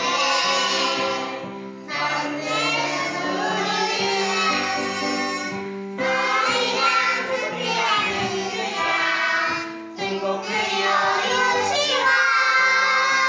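A children's song: children's voices singing over instrumental accompaniment, in phrases of about four seconds.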